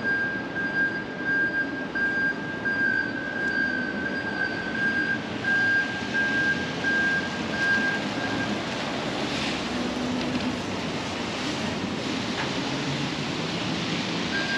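Steady rain falling on a city street, a constant hiss. Over it a high-pitched beep pulses on and off, stops about eight seconds in and starts again near the end.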